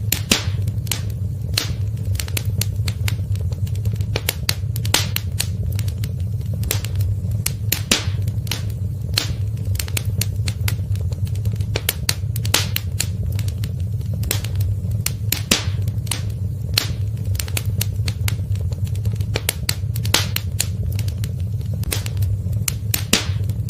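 Wood fire crackling in a fireplace: sharp pops and snaps at irregular intervals, several a second, over a steady low rumble.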